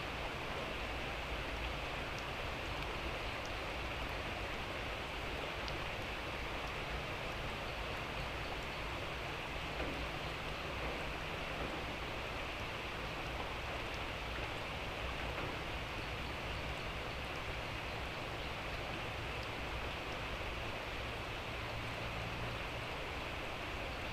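Steady light rain falling, an even hiss with scattered faint drip ticks.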